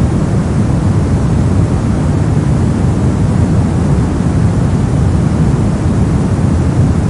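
Continuous brown noise: a steady, deep rumbling hiss, strongest in the lows and thinning out toward the highs.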